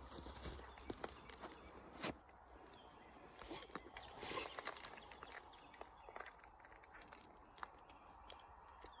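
Faint handling noise: scattered light clicks, taps and rustles, a few a little louder about two seconds in and again around four seconds in.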